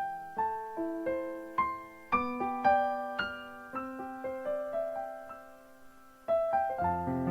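Soft background piano music: single notes struck about twice a second and dying away, swelling to a fuller, louder run of notes near the end.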